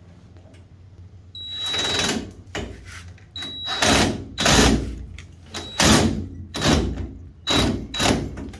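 A power drill running in about seven short, loud bursts with a high motor whine, starting about a second and a half in, while working at the tail-light mounting holes.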